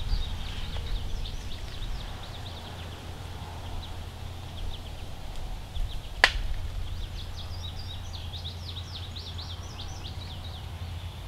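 Birds chirping in runs of quick high notes over a steady low outdoor rumble, with one sharp click about six seconds in.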